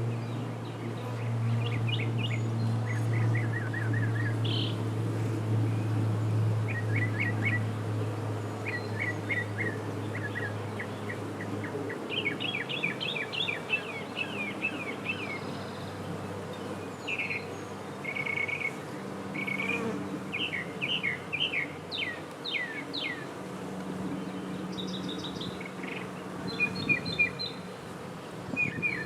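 Honey bees humming around an opened hive, a steady low hum that weakens about twelve seconds in. Small birds call over it with quick repeated chirps and trills.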